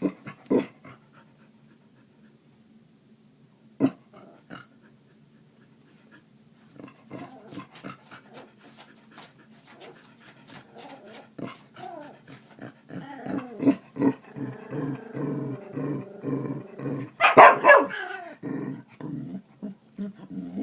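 Yorkshire terrier making a repeated rhythmic growl that sputters like a car engine cranking without catching. It grows louder to about three pulses a second and breaks into a loud bark near the end, with single sharp barks at the start and about four seconds in.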